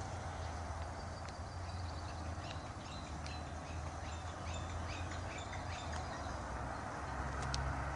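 Small birds chirping in quick, short calls over a steady low rumble.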